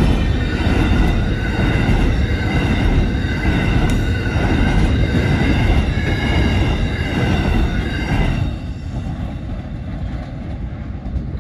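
Coal train hopper wagons rolling past, a loud steel-wheel rumble with a steady high-pitched wheel squeal over it. About eight seconds in the noise drops as the tail of the train passes and moves away.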